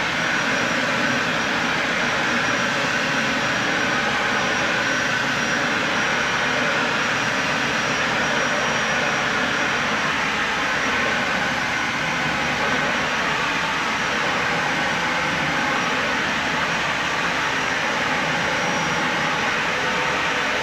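Dyson Ball Animal 3 upright vacuum cleaner running steadily on carpet: an even rushing of air with a thin high whine.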